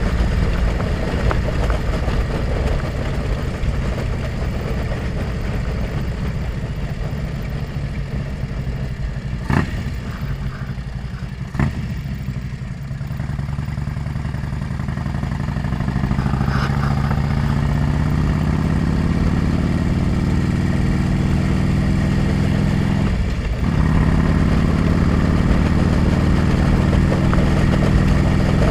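Motorcycle engine heard from the rider's helmet while riding. The engine note falls as the bike slows, with two sharp clicks around the middle, then climbs as it accelerates, with a short break in the note about two-thirds of the way through before it runs on louder.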